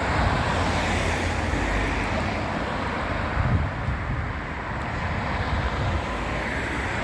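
Steady city street traffic noise with wind buffeting the microphone.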